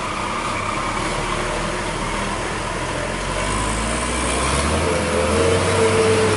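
Heavy truck engine running and labouring on a steep climb, growing louder about halfway through, with a steady whine coming in near the end.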